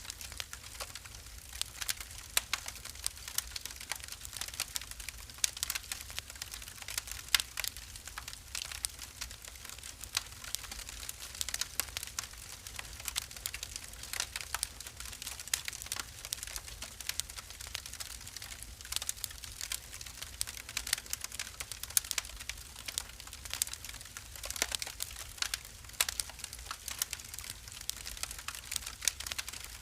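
Wood fire burning in a fireplace, crackling with a dense, irregular stream of sharp pops and snaps over a steady low rumble of the flames.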